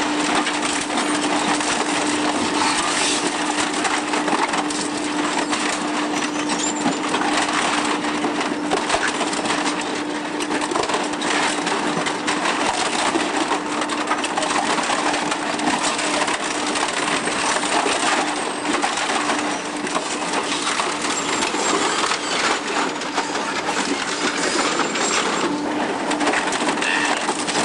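Saturn 62-40HT dual-shaft shredder tearing up vacuum cleaners: continuous cracking, snapping and crunching of plastic housings and metal parts over a steady hum from the drive.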